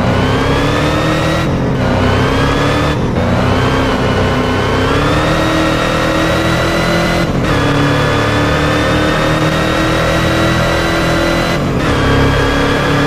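Hennessey Venom GT's twin-turbo V8 accelerating hard through the gears: the engine note climbs steadily, with four quick upshifts where the pitch dips and climbs again.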